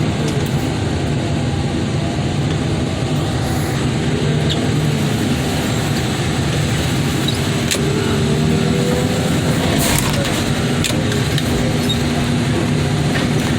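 Heavy equipment engine running steadily under load, with a faint whine that rises and falls. A single sharp knock comes about ten seconds in.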